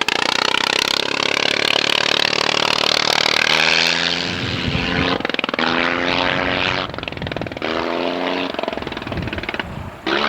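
Sopwith Camel replica's rotary aero engine in flight, passing with its pitch falling over the first few seconds. After that the note runs unevenly, breaking off and picking up again several times.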